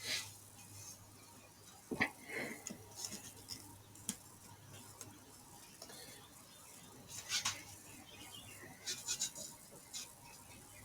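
Scattered clicks and taps of a computer mouse and keyboard, the sharpest about two seconds in and small clusters later on, over a faint steady low hum.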